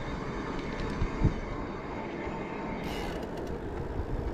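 Steady low rumble and hiss of riding an e-bike along a road: wind on the microphone and tyre noise, with a short knock about a second in.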